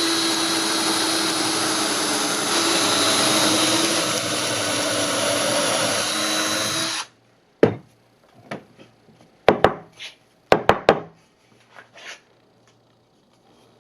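Power drill running under load for about seven seconds, then stopping suddenly, typical of driving pocket-hole screws into a scrap-wood frame. A few sharp knocks follow, spaced out over the next few seconds.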